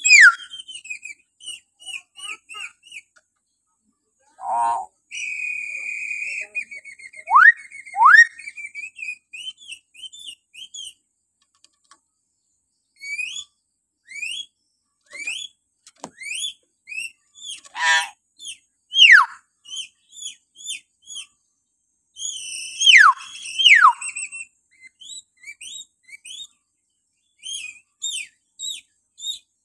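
Hill myna (beo) calling shrilly: a run of short chirps and whistles, broken by loud falling whistles that come in pairs, about a quarter of the way in and again about three quarters of the way in.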